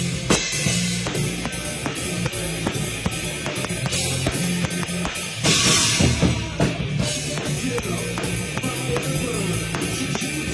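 Drum kit played close up in a loud rock band rehearsal: fast, driving kick and snare strokes with a cymbal crash about five and a half seconds in, over sustained low bass and guitar notes.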